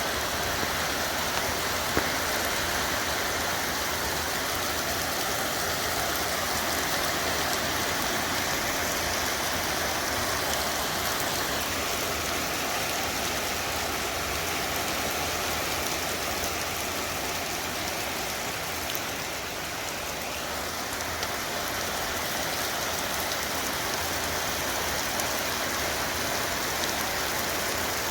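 Very heavy rain pouring down steadily as an even, dense hiss, easing slightly about two-thirds of the way through.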